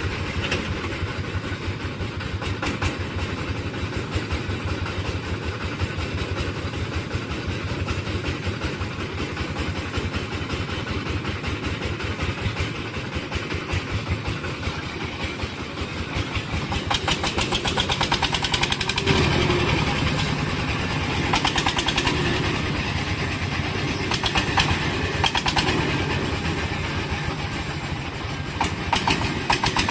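Công nông farm truck's single-cylinder diesel engine chugging steadily. It grows louder in surges through the second half.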